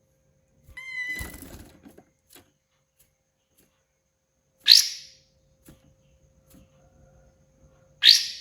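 Kapas tembak songbird calling: a short whistled note about a second in, then two loud, sharp notes that sweep downward, about three and a half seconds apart.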